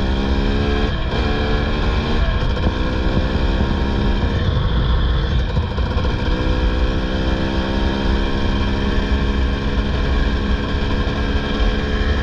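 Dirt bike engine running under way with two riders aboard, its pitch holding steady and then stepping up or dropping off several times as the throttle and gears change, over a heavy low rumble.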